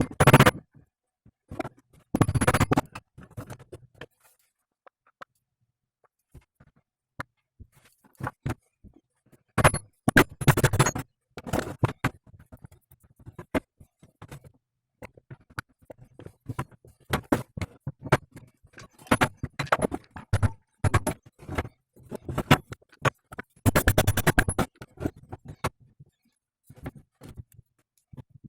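Hand tools and metal parts clicking, knocking and scraping on an automotive driveshaft being worked on, with quiet gaps between. There are short bursts of rapid clicking at the start, about 2 s in, around 10 s in, and again near 24 s in.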